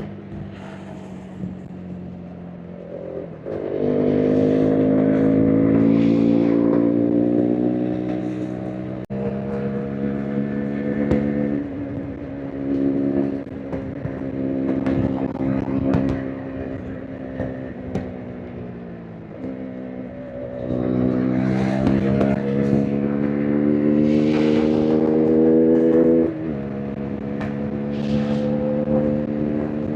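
KTM RC 390's single-cylinder engine pulling hard under full throttle, its note climbing steadily in pitch. The throttle opens about three and a half seconds in, there is a shift around nine seconds, and a second long pull from about twenty seconds drops off sharply at the next shift or throttle lift, then settles to a steadier run.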